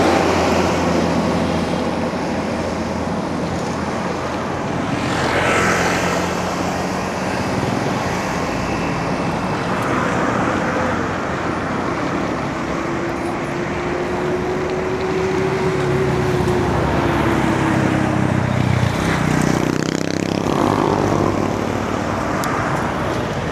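Road traffic heard from a bicycle in city streets: motor vehicle engines running and passing, their pitch rising and falling as they go by. One vehicle passes close near the end.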